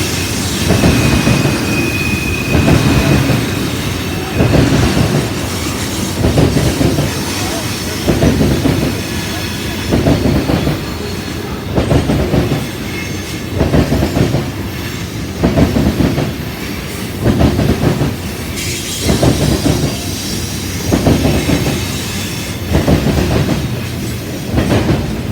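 CSX freight train cars rolling past, their wheels clattering on the rails in a steady rhythm of loud bursts about every two seconds. A brief high wheel squeal sounds near the start.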